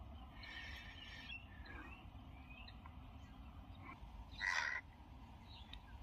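Faint bird chirps, then one short, louder bird call about four and a half seconds in.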